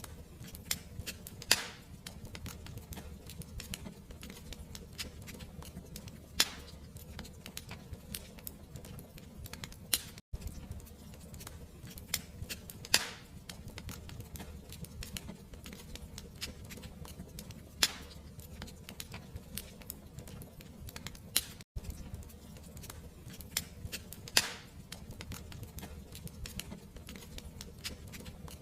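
Fireplace fire crackling steadily over a low rumble, with fine rapid crackles and a sharp louder pop every few seconds. The sound cuts out for an instant twice, about 11 seconds apart.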